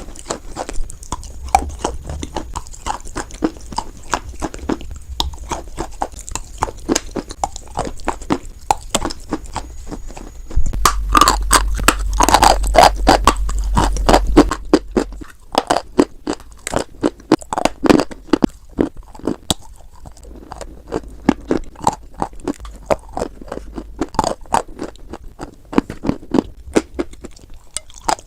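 White chalk being bitten and chewed: a steady run of dry crunches and cracks, which grows denser and louder for a few seconds around the middle.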